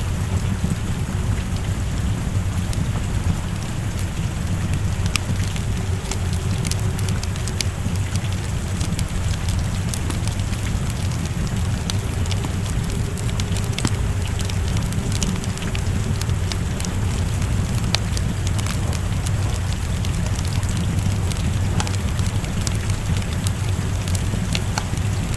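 Steady rain falling, with a wood fire crackling over it in scattered sharp pops and a low rumble underneath.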